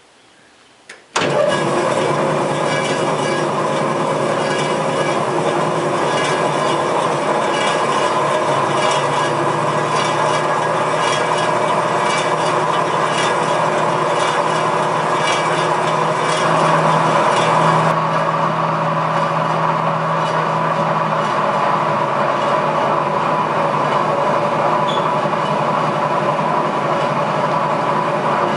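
Lincoln KV-50 vertical band saw switched on with a click about a second in, then its 3-phase motor and blade running steadily.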